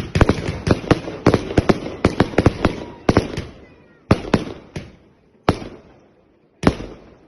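Consumer fireworks going off in a rapid string of sharp bangs, about three or four a second, for the first three seconds. After that come a handful of single bangs spaced about a second apart, each with a short echo.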